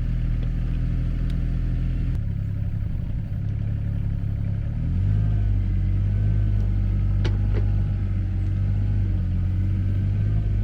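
An engine running steadily, its pitch shifting a couple of times, with a few light clicks.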